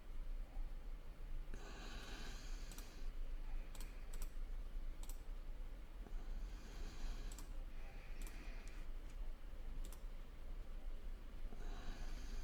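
Computer mouse clicks, about eight single clicks spaced irregularly, between breaths into the microphone, over a steady low hum.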